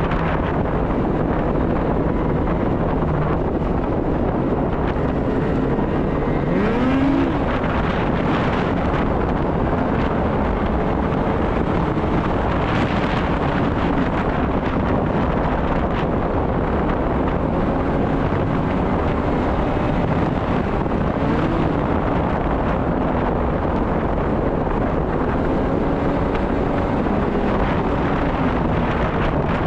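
Snowmobile engine running under way, its pitch rising and falling with the throttle, over wind noise on the microphone.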